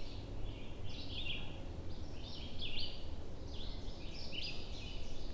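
A small songbird singing short bursts of high chirping notes, about one burst a second, over a steady low rumble of outdoor noise.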